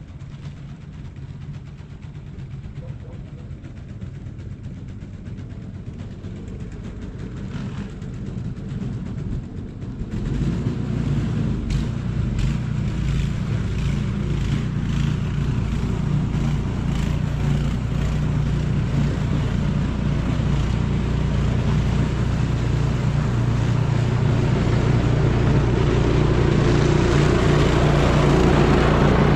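An engine running steadily with a low hum, jumping louder abruptly about ten seconds in and then rising slowly.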